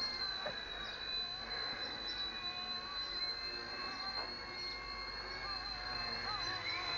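Small electric RC helicopter in flight: a steady high-pitched motor whine with the rotor running, its lower pitch wavering slightly as it manoeuvres.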